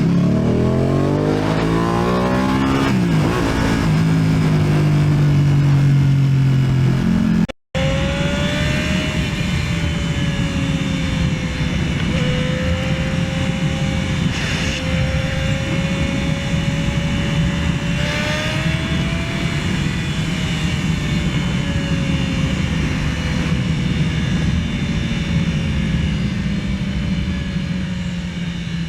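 Motorcycle engine revving up through the gears, its pitch climbing and dropping at each shift. After a brief cut it runs on at a steady cruise over wind and road noise, with a whine that slowly wavers in pitch.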